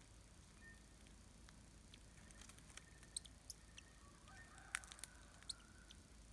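Near silence with a faint low hum, broken in the middle by a scatter of faint sharp clicks and ticks, the loudest a little before the end, and a faint thin high tone alongside them.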